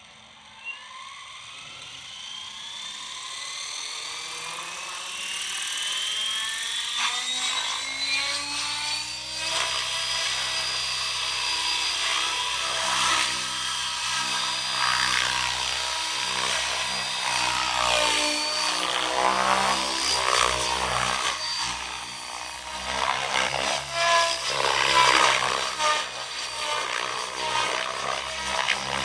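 Soxos 700 electric RC helicopter with an Xnova brushless motor spooling up: a motor whine rises in pitch over about the first nine seconds, then settles to a steady head speed. The rotor and motor noise then grows louder and wavers up and down as it flies.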